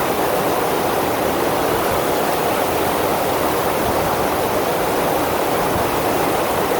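FlowRider surf machine's pumped sheet of water rushing steadily over the wave surface.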